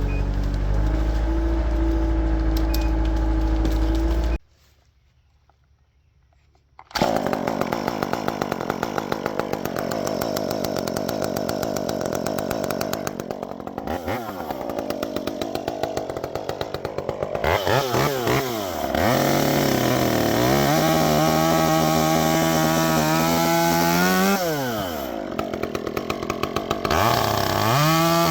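Stihl chainsaw fitted with a handmade custom exhaust, running and being revved up and down several times, each rise and fall of the throttle clearly heard, then held at steady speed. A steady engine hum opens, broken by a brief drop to near silence before the saw comes in.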